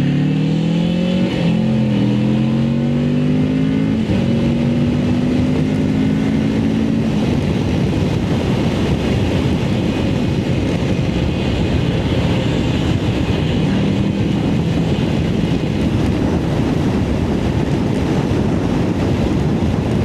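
Motorcycle engine accelerating, its pitch rising through two gear changes over the first few seconds. After that a steady rush of wind on the microphone at road speed mostly covers the engine.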